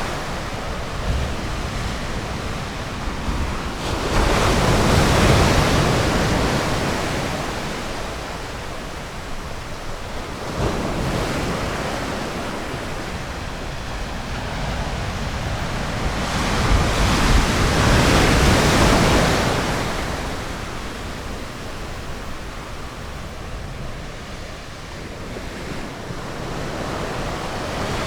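Ocean surf rolling onto a beach, a steady rush of water. Waves break loudly twice, about four seconds in and again around seventeen seconds in, each swell slowly fading away.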